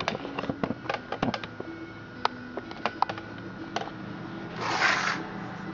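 Light metallic clicks and clinks, quick and clustered in the first two seconds and then sparser, as small saw chain pieces and a sprocket are handled. A short hiss comes near the end, over a faint steady hum.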